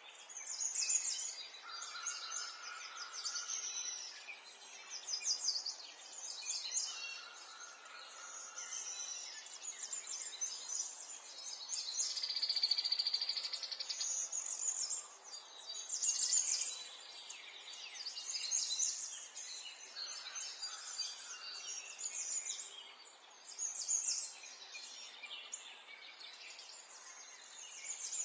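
A chorus of many songbirds singing and chirping at once, with rapid high trills overlapping almost without a break and a lower held note from time to time.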